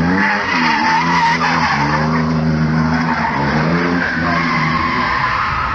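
Mercedes 190E's 3.6-litre M104 straight-six working hard and rising and falling in revs while the tyres squeal through a drift.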